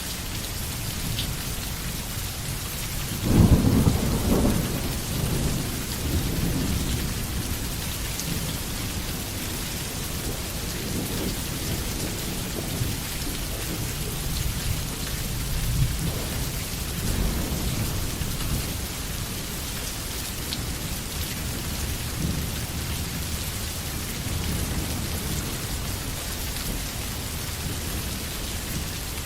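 Steady rain falling, with a clap of thunder about three seconds in that rumbles away over several seconds, and fainter rolls of distant thunder later on.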